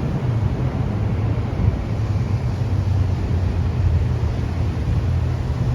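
A steady low rumble with wind noise on the microphone, holding an even level with no distinct events.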